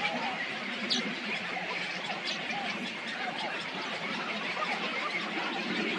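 A dense chorus of many birds calling at once, full of short overlapping chirps and squeaks, with one sharp falling call about a second in.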